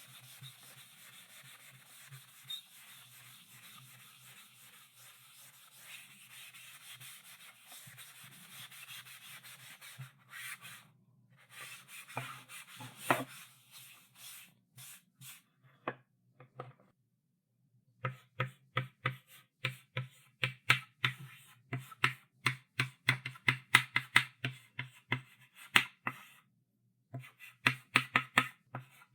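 Chalk writing on a blackboard: a steady scratching stroke for about the first ten seconds, then a few separate strokes with one louder one a little after halfway. In the second half the chalk strikes the board in quick, short strokes, about three to four a second.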